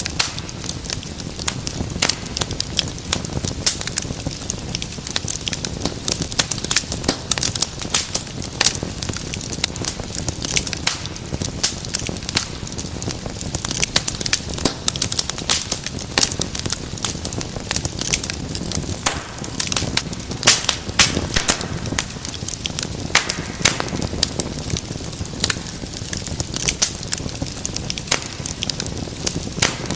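Wood fire burning in a fireplace: a steady low rumble of flame with dense, irregular crackles and pops.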